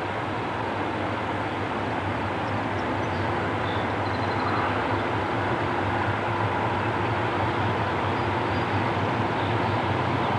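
Diesel train running with a steady low engine drone and rail noise, growing gradually louder.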